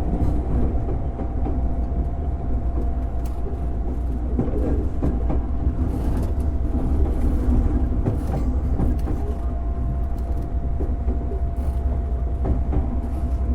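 Running sound inside a JR 205-series electric motor car with MT61 externally fan-cooled traction motors. It is a steady rumble of motors and wheels on the rails, with one steady humming tone over it.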